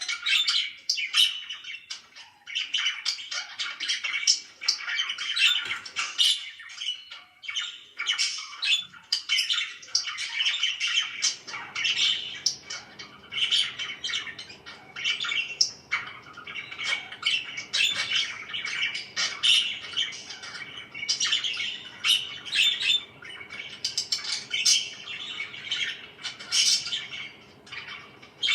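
Pet parakeets chirping and squawking in a busy, continuous chatter of short, high calls.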